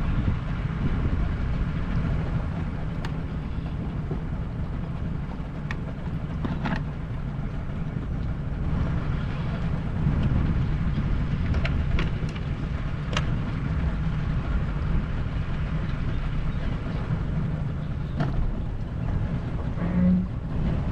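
150 hp Yamaha outboard on a bass boat running steadily under way, with wind buffeting the microphone. A few brief sharp knocks come through over the drone.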